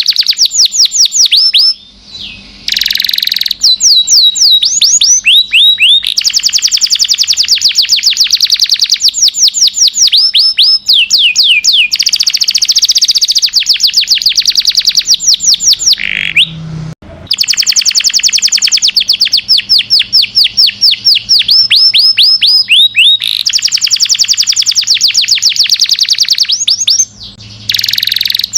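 Domestic canary singing its long song: loud rapid trills of quickly repeated high, falling notes, one phrase running into the next with only a few short breaks.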